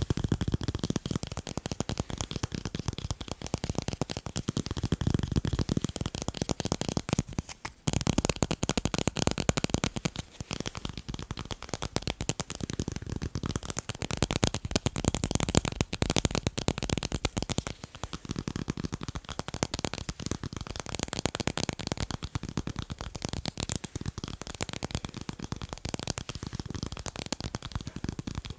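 Fast tapping of fingertips on tape, a dense, rapid patter of small taps with a brief pause about eight seconds in.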